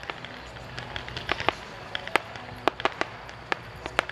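Aerial fireworks bursting: about a dozen sharp pops and bangs at irregular intervals, over a steady background hiss.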